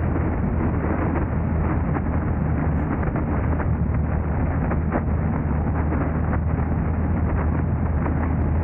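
A car driving: steady road and wind noise over a low engine drone, with small ticks and knocks from the road surface throughout.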